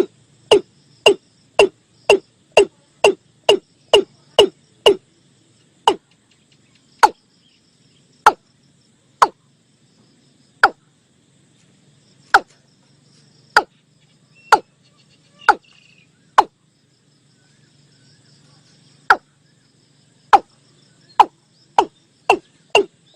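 Watercock calling: a series of short, hollow notes, each dropping in pitch. They come about two a second at first, slow to single notes one to two seconds apart with a longer gap past the middle, and quicken again near the end.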